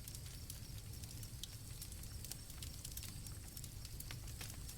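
Faint campfire crackling: scattered sharp pops and snaps over a low rumble, with crickets chirping softly and steadily high in the background.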